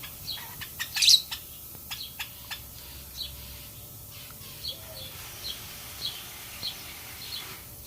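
Pet lovebirds chirping: short high chirps about every half second, with a busier patch of sharp calls and clicks in the first couple of seconds and one louder call about a second in.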